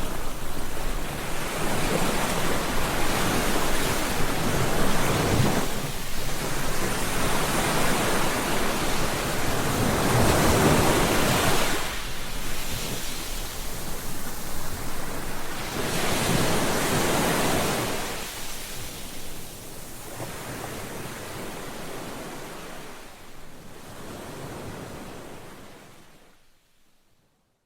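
Ocean waves breaking and washing up on a beach, each swell of surf rising and falling every few seconds. The sound fades out near the end.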